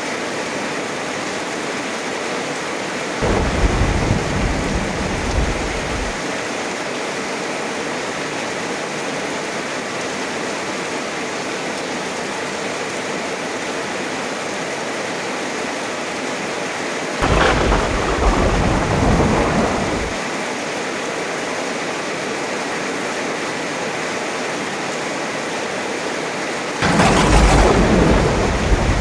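Heavy rain falling steadily, with three claps of thunder: low rumbles starting about three seconds in and about seventeen seconds in, each lasting two to three seconds, and a sharper, brighter clap near the end.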